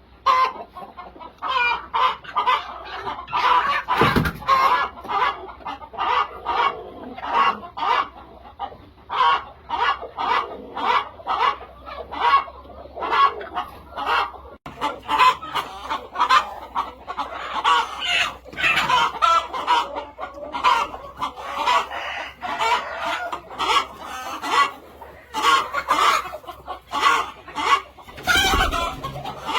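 A flock of chickens clucking continuously, many short calls overlapping. Two dull low thumps break in, about four seconds in and again near the end.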